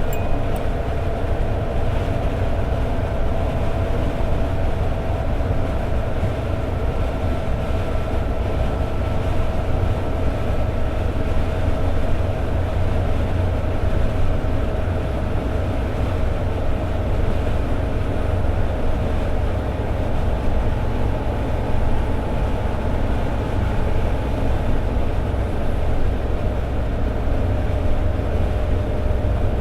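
Toyota AE86 Sprinter Trueno's inline-four engine and tyres at steady highway cruise: an even low drone with road noise, and a held engine tone that drifts slightly lower through the stretch.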